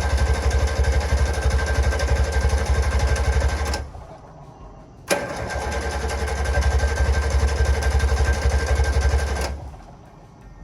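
Starter cranking the 1965 Subaru 360's small two-stroke twin with a fast, even chugging and a steady whine, in two long cranks of about four seconds each with a short pause between; the engine does not catch, a failed start after the fuel-system overhaul.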